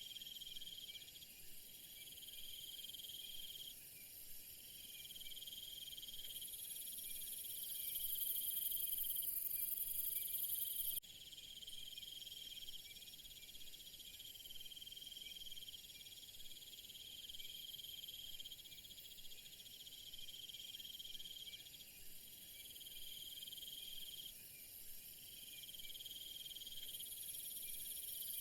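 Chorus of crickets and other insects chirring steadily, with a trilling call that comes and goes in phrases of a second or two. A very high shrill buzz swells to the loudest part and cuts off abruptly about eleven seconds in, then starts to return near the end.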